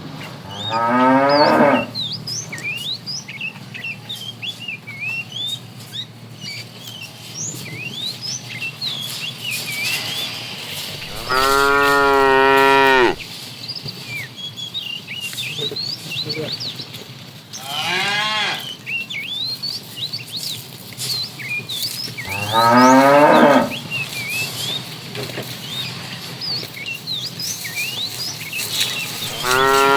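Cattle mooing: five loud moos several seconds apart, the longest about two seconds near the middle, some rising in pitch. Small birds chirp in the background throughout.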